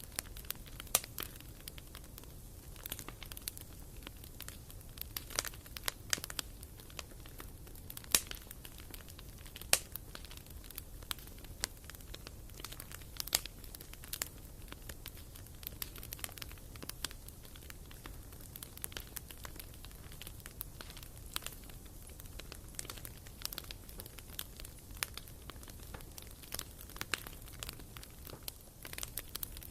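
Wood fire burning in a fireplace, crackling with irregular sharp pops and snaps, a few of them much louder than the rest, over a steady low background.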